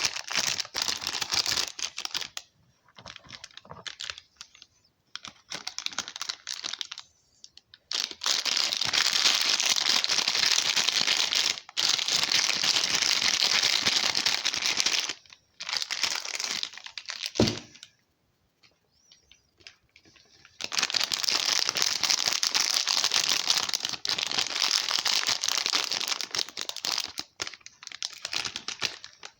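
Soap wrappers crinkling and tearing as soap bars are unwrapped by hand, in three long bouts of dense rustling with sparse crackles and short quiet gaps between.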